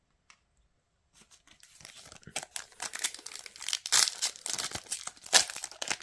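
Plastic wrapper of a One Piece card game booster pack being torn open and crinkled by hand. It starts about a second in and grows louder, with the loudest crackles near the end.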